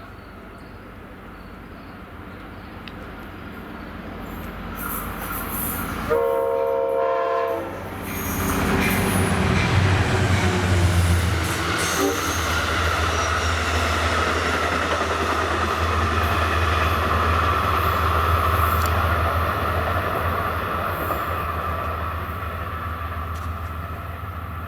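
Train horn sounding once for about a second and a half, then a train passing with a steady low rumble and a high whine above it, fading slowly near the end.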